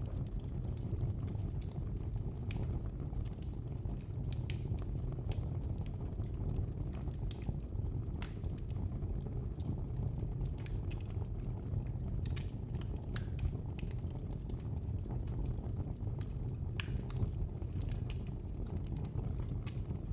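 Wood fire burning in a fireplace: a steady low rush from the flames with irregular sharp crackles and pops scattered throughout.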